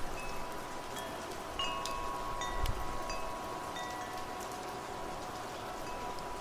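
Wind chimes ringing in the wind, several notes struck about a second and a half to two seconds in and ringing on, over steady rain.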